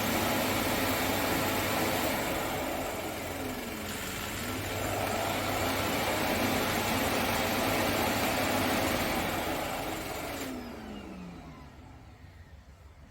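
Auto-empty dust collection station of an ECOVACS DEEBOT N20 PRO PLUS robot vacuum running its suction motor, a loud steady rushing whoosh as it draws the dirt out of the robot's dustbin. It dips briefly about four seconds in, then winds down with a falling whine near the end.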